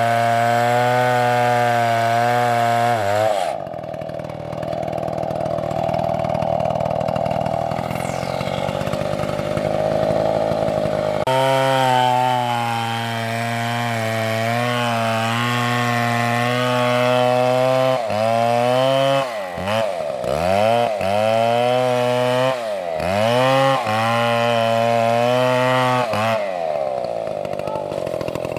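Large chainsaw running at full throttle, drops back to a low idle for several seconds, then revs up again. In the second half the engine pitch dips sharply several times before it settles back to idle near the end.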